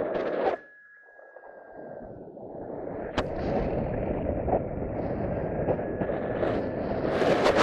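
Wind buffeting the microphone, a rough rushing noise that dips sharply about half a second in and then builds back up to its loudest near the end, with a faint steady high tone behind it.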